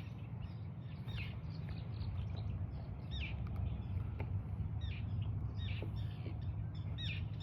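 Small birds chirping repeatedly, each call a short falling note, over a steady low rumble.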